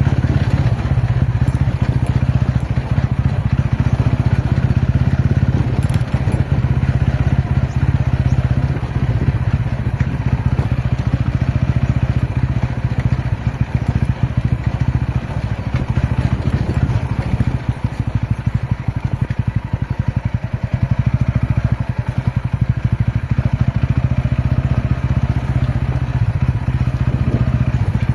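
TVS Ronin's single-cylinder motorcycle engine running at a steady pace while the bike is ridden off-road: a steady low drone under a constant rushing noise.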